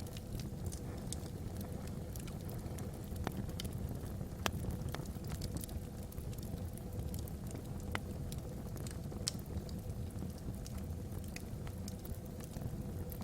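Log fire burning in a fireplace: irregular small crackles and pops over a steady low rumble, with the sharpest pops about four and a half and eight seconds in.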